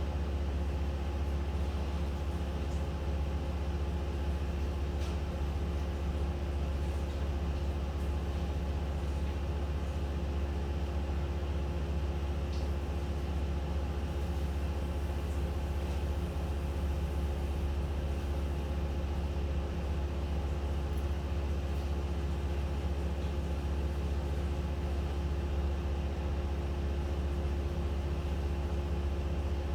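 An engine running steadily at a constant speed, with a deep, even hum that does not change.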